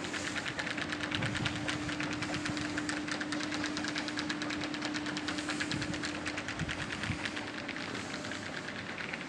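Train running at the station platforms: a steady mechanical rattle of rapid ticks over a low hum, which dies away about six and a half seconds in.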